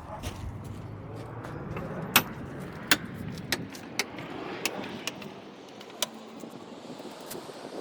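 Sharp clicks and clanks from hand tools working the lug nuts on a GMC Yukon's wheel, coming every half second to a second, the loudest about two seconds in, over a low background rumble.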